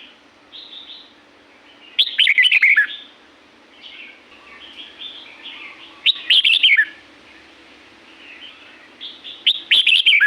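Red-whiskered bulbul singing: three loud, quick warbled phrases about four seconds apart, with softer chattering notes between them.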